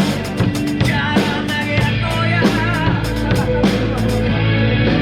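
Drum kit played along with a rock song, with kick, snare and cymbal hits over guitar and other band parts.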